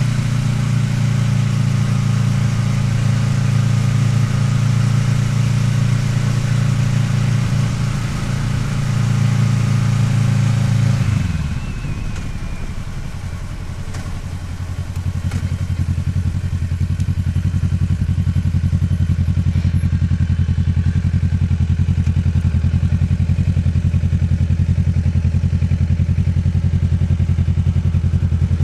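Kawasaki Ninja 650R's parallel-twin engine running at a steady speed with wind rushing past. About eleven seconds in, the engine pitch drops and the wind noise fades as the bike slows. It then runs low and slow with an even pulsing beat.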